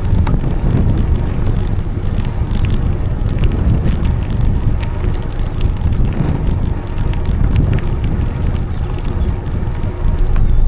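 Wind buffeting the microphone of a camera carried on a moving bicycle, a steady low rumble, with scattered small ticks and rattles from the bike on the path.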